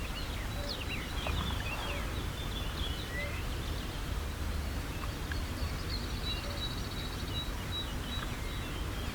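Outdoor ambience: a steady low rumble with small birds calling in short, high chirps and quick whistles, and a high buzzing trill from about the middle until near the end.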